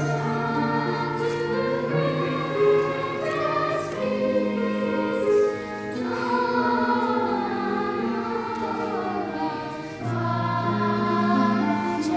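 Choir singing with orchestral accompaniment in slow, sustained chords.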